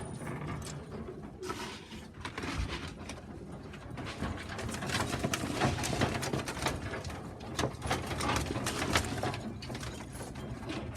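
Young pigeons cooing, with many quick taps and clicks that grow busier from about four seconds in.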